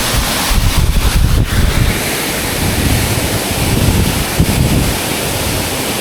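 Waterfall close by, a steady loud rush of falling water, with uneven gusts of wind buffeting the microphone.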